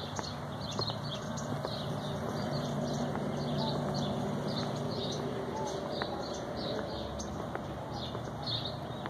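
Small birds chirping repeatedly, a few calls every second, over a steady low background murmur, with occasional footsteps.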